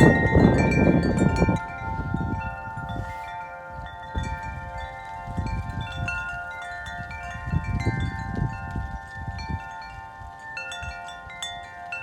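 Wind chimes ringing continuously in strong, gusty wind, several tones sounding and overlapping at once. Wind rumbles on the microphone, heaviest in the first second and a half and again in a few later gusts.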